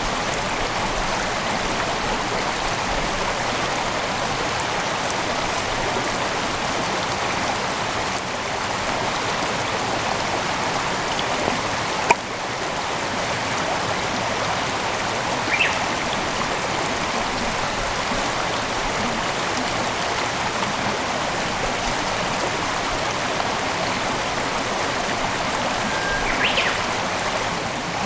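A mountain headwater stream flowing over rocks in a steady rush. There is a single sharp click near the middle and two brief high chirps later on.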